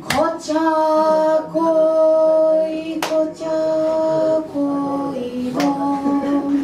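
Singing voices holding long, steady notes that step to a new pitch every second or two, in an improvised group performance. Sharp knocks cut in at the start, about three seconds in, and near the end.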